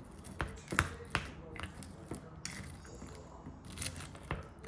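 A few light knocks and clicks, with short rustling noises.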